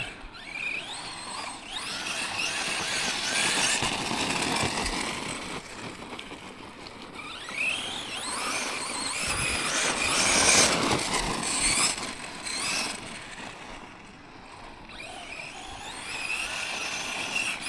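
Tekno MT410 2.0 1/10-scale electric RC monster truck being driven hard: its motor and drivetrain whine up and down with the throttle while the tyres scrabble over loose, rocky ground. The battery is running down to its low-voltage cutoff.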